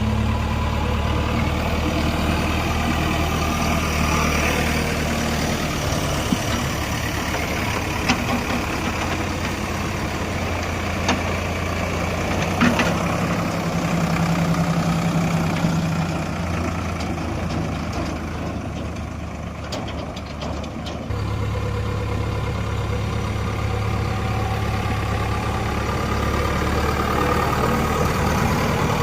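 Diesel tractor engine running steadily, its low note changing a couple of times, with a few short knocks.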